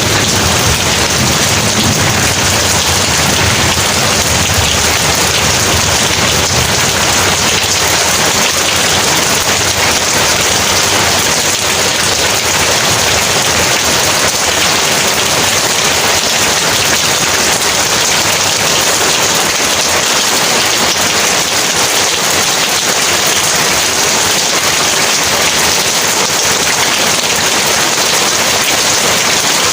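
Heavy rain pouring steadily, a dense even hiss. A low thunder rumble fades out in the first few seconds.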